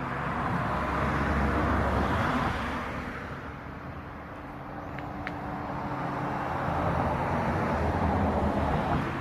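Outdoor road traffic noise: vehicles passing, the rumble swelling, fading about four seconds in, then building again toward the end.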